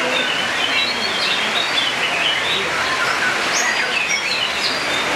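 Many caged songbirds chirping and whistling at once, with quick overlapping notes, over the steady hiss of heavy rain.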